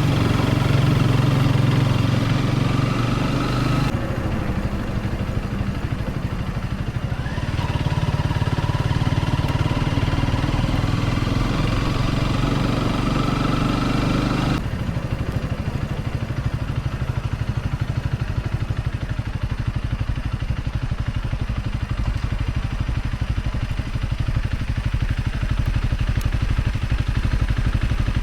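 Honda CRF250 Rally's single-cylinder engine running steadily, its sound changing abruptly about four seconds in and again about halfway through.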